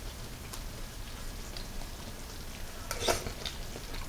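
A person taking a bite of braised chicken and chewing: a few faint clicks and a brief rustling scrape about three seconds in, over a low steady room hum.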